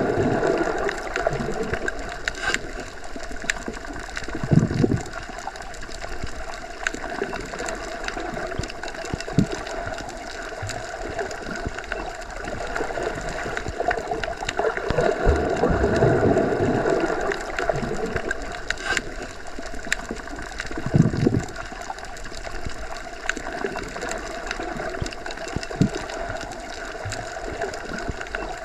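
Underwater ambience, heard as if submerged in a pool or lake: a steady muffled drone with slow swells of water movement and a few faint clicks.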